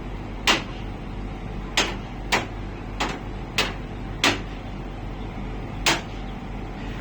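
Steady low hum of a running air conditioner, broken by seven sharp clicks at uneven intervals.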